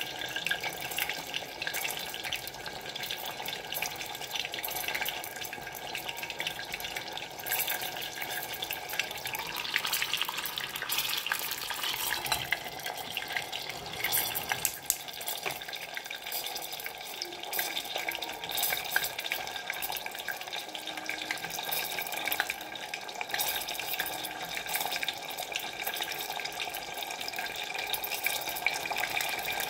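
Battered banana fritters frying in hot oil: a steady sizzle with fine crackling throughout. The fritters are browning and almost done.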